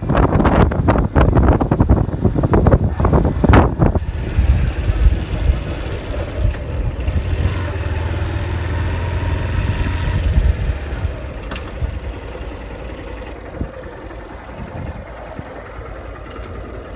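Wind buffeting the microphone on a moving motorcycle, dying down about four seconds in. The Honda CG 160 Start's single-cylinder engine then runs with a steady low drone, growing quieter from about eleven seconds in.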